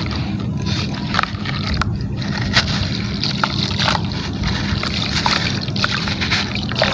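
Gritty material crumbling in water: wet sloshing with many irregular sharp crackles and clicks over a steady low rumble.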